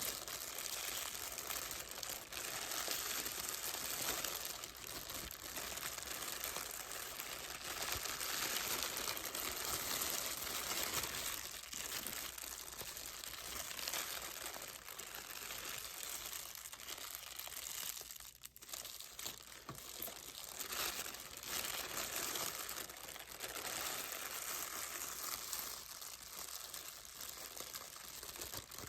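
Packaging being crinkled and rustled by hand, a continuous run of small crackles that drops out briefly about eighteen seconds in.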